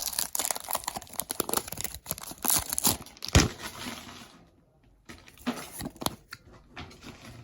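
Foil booster pack of Pokémon cards being torn open and crinkled, with a sharp snap about three and a half seconds in; after that, quieter rustling and a few light ticks as the cards are handled.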